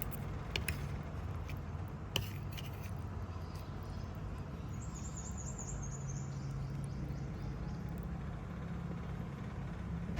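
Steady low mechanical hum with a few sharp metal clinks, like kitchen utensils, near the start, and a brief high chirping about five seconds in.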